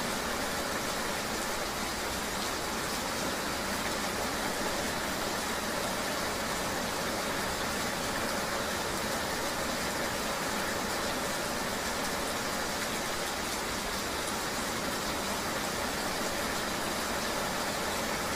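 Steady rain ambience heard as if riding a vehicle through the rain: an even, unchanging hiss of rain and road noise with a faint vehicle hum.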